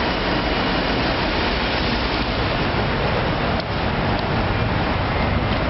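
Train running, a steady loud rumble and hiss.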